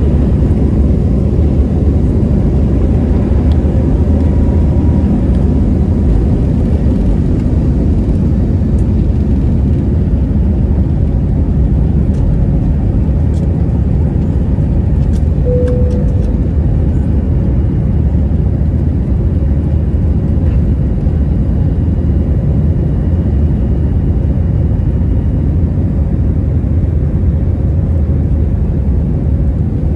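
Passenger jet during takeoff, heard from inside the cabin: the engines and airflow make a steady, loud low rumble throughout.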